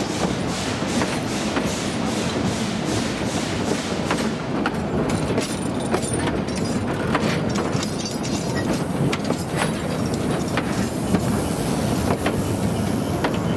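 Train running past, with a steady rumble and a fast, regular clicking that thins out after about four seconds.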